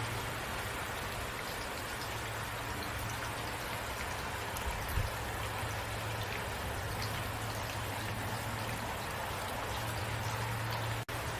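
Steady rain with scattered individual drops ticking, over a steady low hum. The sound cuts out for a split second just before the end.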